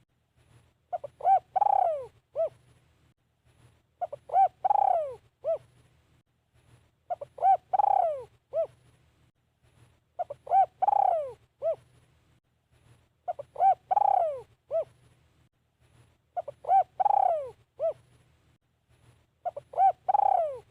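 Spotted dove cooing: the same phrase of a few short coos around one longer coo that falls in pitch, repeated about every three seconds, seven times over. It is the call of a caged decoy dove used to lure wild doves.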